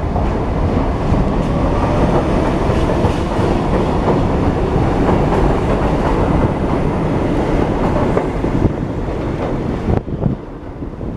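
A New York City subway train running through on the West End line, its wheels clattering over the rail joints. The noise drops away sharply about ten seconds in.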